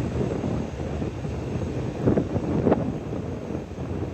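A ferry's engine rumbles steadily, with wind buffeting the microphone. Two brief louder surges come about two and two-and-a-half seconds in.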